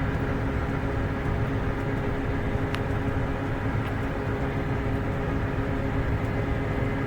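John Deere 7290R tractor's diesel engine running at a steady speed, heard from inside the cab as an even low drone with a constant whine.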